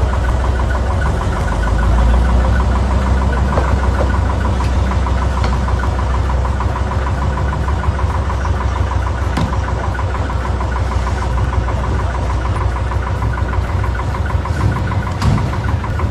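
Car engine running steadily as the car drives along a railway track on fitted rail wheels. A few sharp clicks are heard.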